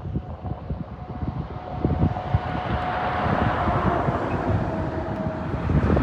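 Wind buffeting the microphone, under a rushing vehicle noise that swells to a peak about three to four seconds in and then eases off, with a faint steady hum that fades near the end.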